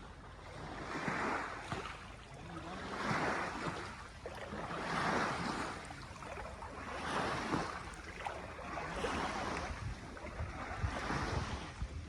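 Small waves washing in regular swells about every two seconds, over a low rumble of wind on the microphone.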